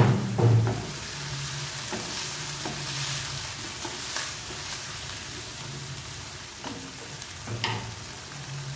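Chicken and sliced onions frying and sizzling in a stone-coated pan while a wooden spatula stirs and scrapes through them. Two loud knocks at the very start, and another softer knock near the end.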